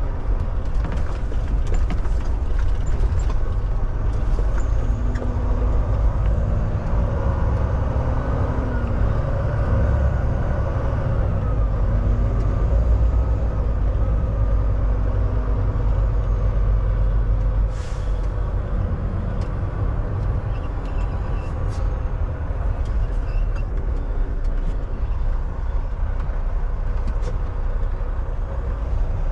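Semi-truck diesel engine running at low speed, a steady low rumble whose pitch shifts a little in the first half, with a short hiss of air brakes a little past the middle.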